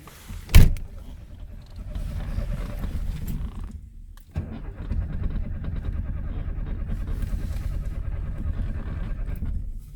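VAZ-2106 Zhiguli four-cylinder engine sounding in two spells, a short one and then a longer steady one of about five seconds, stopping abruptly near the end. A single sharp knock comes about half a second in.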